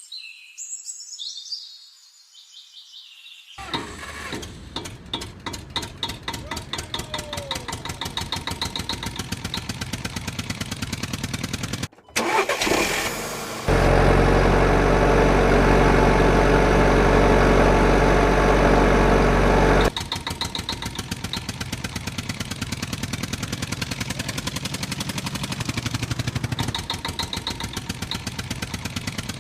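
Tractor engine starting and running with an even putt-putt beat that speeds up from about two to about six beats a second. It is preceded by a short sound with falling tones. About halfway through, a loud steady drone with several tones lasts about six seconds before the engine beat returns.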